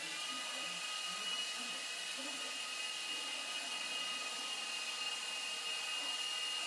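A steady high-pitched mechanical whine over a hiss, holding one pitch throughout, like a small motor or turbine running.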